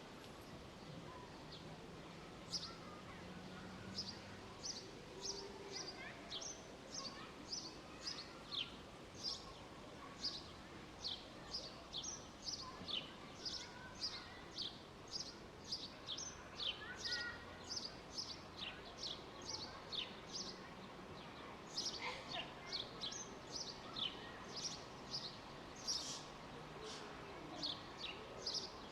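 A small bird calling over and over with short, high chirps that sweep downward, about two a second, starting a couple of seconds in. Under it runs a steady background hum of distant noise.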